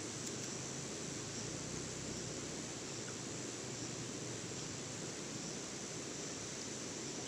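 Steady outdoor ambience: an even hiss with a continuous high insect drone and no distinct events.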